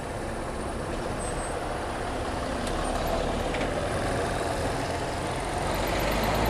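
City traffic heard from a small motorcycle: a steady mix of engine and road noise, including heavy vehicles, growing slowly louder.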